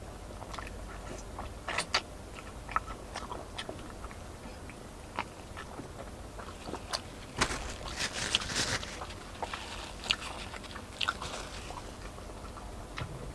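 Close-up eating sounds: biting into and chewing fried chicken, with scattered crunches and mouth clicks, busiest about eight to nine seconds in.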